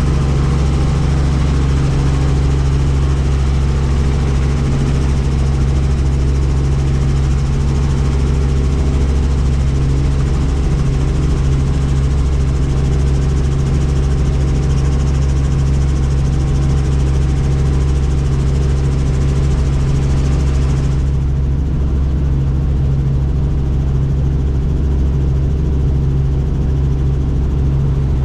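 Helicopter in flight heard from inside the doors-off cabin: a steady, loud drone of rotor and engine, with a windy hiss over it. The hiss drops off suddenly about three quarters of the way through while the low drone goes on unchanged.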